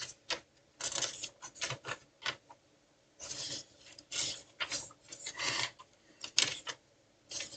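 Paper and card stock rustling and sliding in the hands: a string of short, irregular rustles with brief pauses, as of cards being handled and pages turned.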